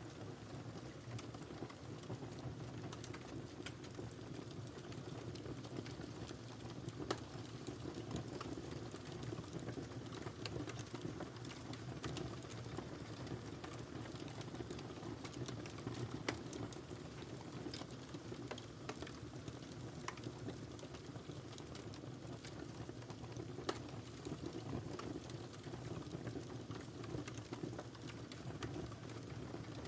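Wood fire crackling in a fireplace: a steady low hiss of burning, with constant small crackles and a few louder pops.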